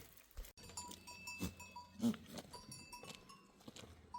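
Small bells on grazing livestock clinking irregularly, with a few soft knocks.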